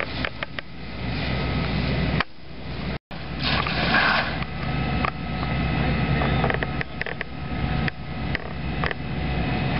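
Burning wood crackling and snapping over a steady low engine-like rumble, with a short rushing hiss about three and a half seconds in, just after a brief cut to silence.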